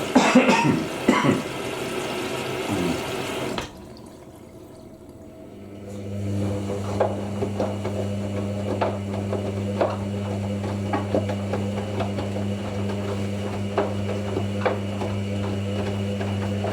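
Hoover NeXtra front-loading washing machine: water rushing in as it tops up, cutting off suddenly a few seconds in. After a short pause the drum motor starts and turns the drum with a steady low hum and light scattered knocks.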